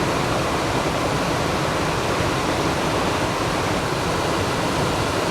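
Heavy monsoon thunderstorm rain pouring down, a steady, even rush.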